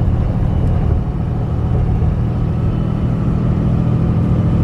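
Steady engine and road noise of a vehicle driving at an even speed, heard from inside the cabin as a continuous low drone.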